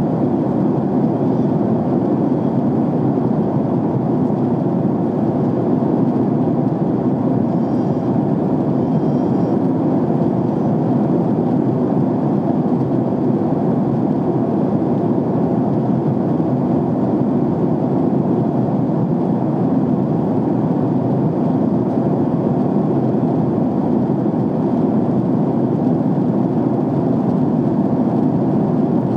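Steady rushing cabin noise inside a jet airliner in flight, the even roar of engines and airflow heard through the fuselage, unchanging throughout.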